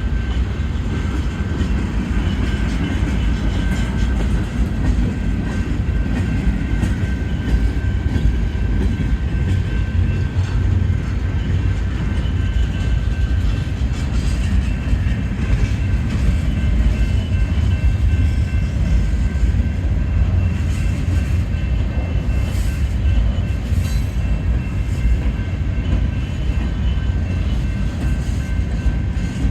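Freight train cars rolling slowly past in a steady low rumble, with thin steady high tones running over it.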